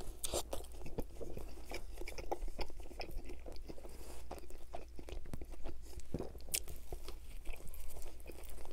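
A person biting into and chewing an Arby's gyro, a soft pita wrap of meat, onions, tomatoes and tzatziki: a run of wet, smacking chewing clicks, with a fresh bite near the end.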